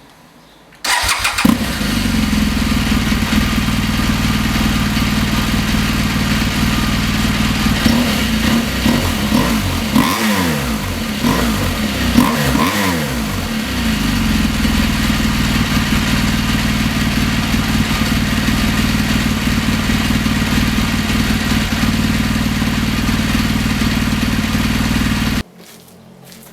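BMW R1200GS K50 boxer-twin engine through an Akrapovic slip-on silencer with the dB killer removed: it starts about a second in and idles. In the middle it is revved several times, then settles back to idle and is switched off abruptly near the end.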